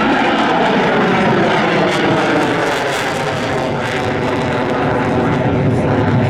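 F-16 fighter's single jet engine, loud and steady as the jet flies over the show area.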